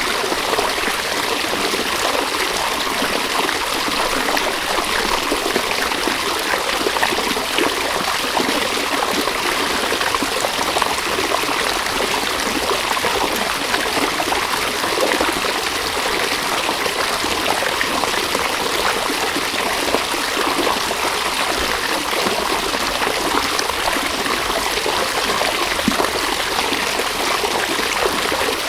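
River water running steadily over stones, a continuous rushing and trickling.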